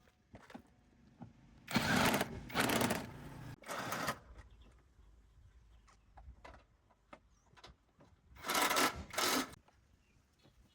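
Short bursts of a power tool's rapid mechanical rattle: three in quick succession, then another near the end, with light clicks and taps in between.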